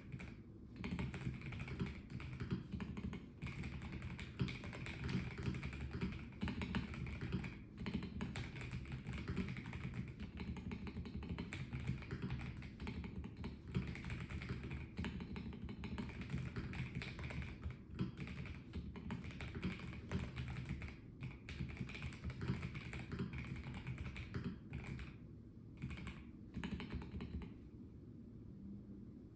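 Melgeek Mojo84 plastic-cased mechanical keyboard being typed on steadily: a continuous run of key clacks with a few brief pauses between bursts.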